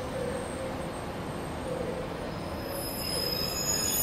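A train running through the station with a steady rumble. High-pitched wheel squeal sets in near the end.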